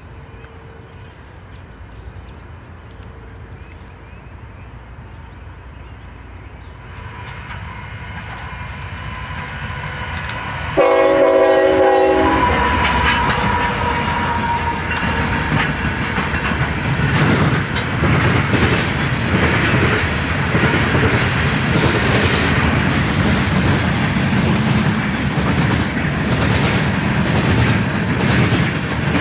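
A diesel-hauled train approaching on a mainline, its rumble growing louder. About eleven seconds in the locomotive gives one short horn blast. The train then passes close by with loud, steady wheel clatter.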